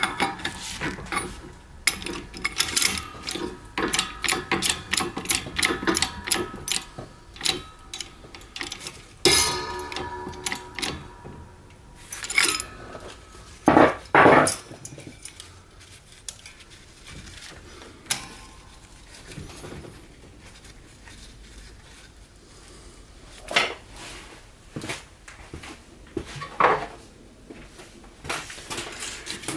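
Metal transmission parts clinking and knocking together as they are handled, many short clicks with brief metallic rings, busiest in the first half, with a couple of louder, longer clatters about halfway through.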